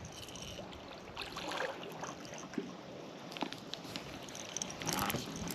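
Faint water sounds around a fishing kayak: light trickling and lapping, with a few small knocks and clicks.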